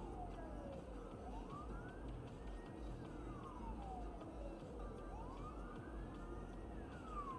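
Emergency vehicle siren in a slow wail, its pitch rising and falling about every three and a half seconds, faint over a low rumble.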